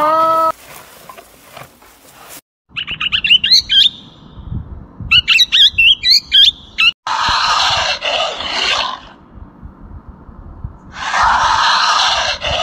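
Parrots calling: a run of quick high chirps and whistles that rise and fall in pitch, then two long harsh rasping calls of about two seconds each.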